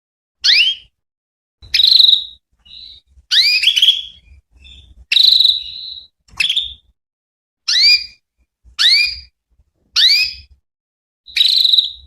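Female domestic canary calling: short upswept chirps repeated about once a second, nine in all, some ending in a brief held whistle-like note.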